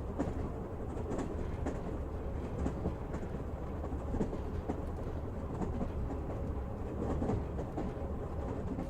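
Passenger train running at speed, heard from inside the carriage: a steady low rumble with wheels clicking irregularly over the rail joints.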